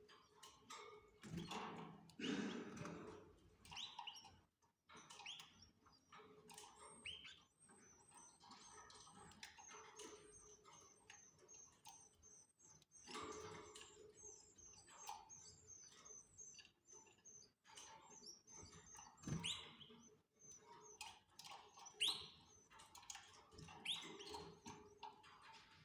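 Canaries faintly chirping and calling: scattered short rising chirps, with a long run of quick, high, thin notes through the middle.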